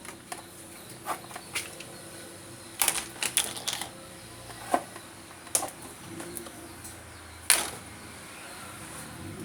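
Scattered clicks and knocks of an electric fan being taken apart by hand, with a short cluster of clicks about three seconds in and a sharper knock near the end, over a low steady hum.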